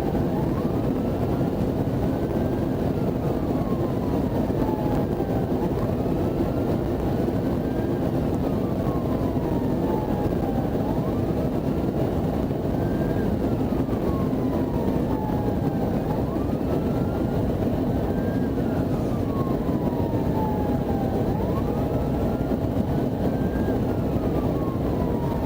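Police siren on wail, its pitch rising quickly and falling slowly about every five seconds, over a steady rush of engine and road noise from the pursuing patrol car.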